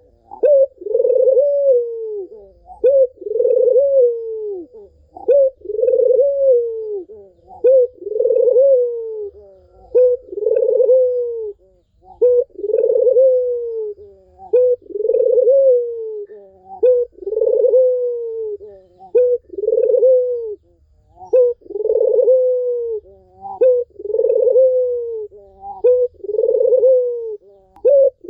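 Puter (domestic ringneck dove) cooing again and again: a short clipped note, then a longer falling coo, repeating roughly once a second without a pause.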